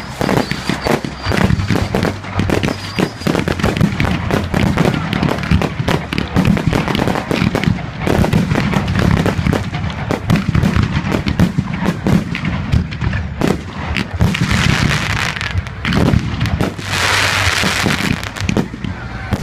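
Fireworks going off in a rapid, near-continuous volley of bangs and pops. There are two stretches of dense hissing, about three-quarters of the way through and again near the end.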